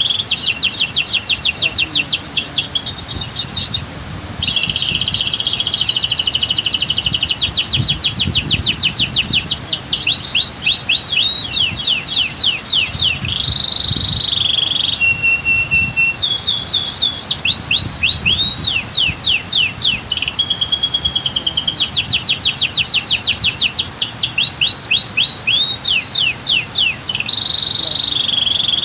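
Domestic canary singing continuously: rapid trills of repeated notes, quick sweeping phrases and steady held whistles, run together with hardly a pause, over a low rushing water background.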